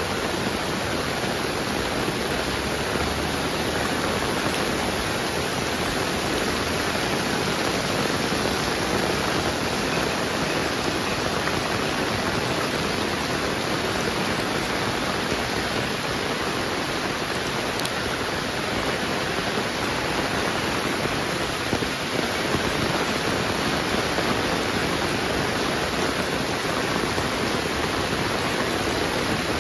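Heavy rain pouring down in a steady, dense hiss, unchanging throughout.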